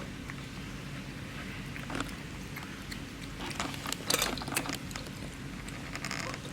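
A cat eating wet food, with soft chewing and smacking clicks that come thickest around the middle, over a steady low hum.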